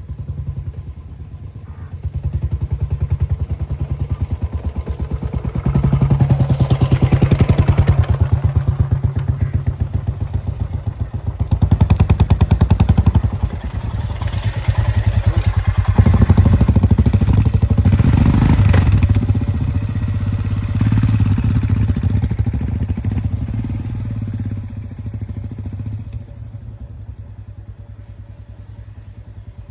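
Motorcycle engine running under way, its firing pulses swelling and easing several times with the throttle, then settling lower near the end.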